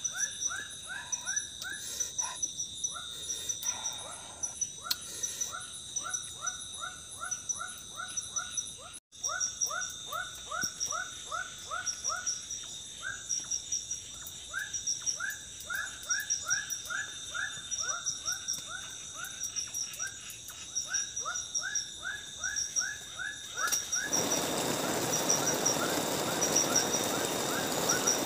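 Forest animal chorus: trains of short rising chirps repeated several times a second, over a steady high insect drone. About 24 s in, a heavy hiss of rain sets in.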